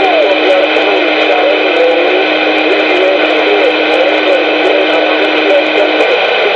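CB radio receiver audio of an open transmission: wavering, warbling tones over a steady hiss and hum, with a steady low tone cutting off about six seconds in.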